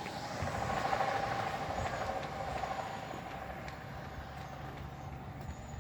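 Hitachi Class 802 IET, a five-car bi-mode unit, passing at modest speed. A steady whine rides over a rushing rumble, loudest about a second in and then slowly fading as the train moves away.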